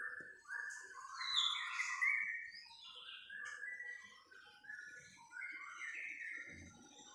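White-rumped shama (murai batu) song: a continuous, varied run of short, clear whistled notes and phrases that jump up and down in pitch. This is the kind of song played to provoke a caged shama into singing back.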